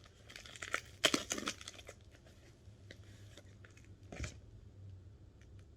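Packing wrap crinkling and tearing as a wrapped crystal is unwrapped by hand, loudest a little after a second in, then a few light clicks and a single soft knock about four seconds in.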